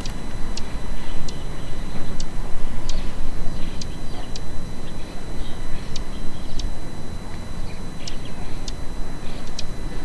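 A small bird giving short, sharp ticking call notes, irregularly, about one a second, over a steady low rumble.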